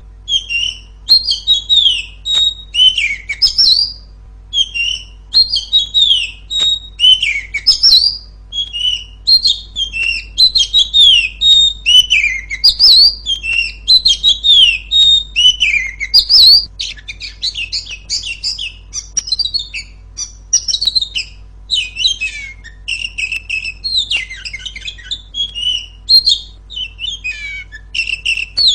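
Female oriental magpie-robin (kacer) singing a loud, continuous song of rapid, varied whistled phrases, sweeping notes and chatters.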